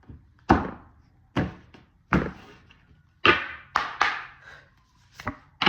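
Tarot cards being slapped down or flipped onto a table: a series of about eight sharp slaps and taps, unevenly spaced.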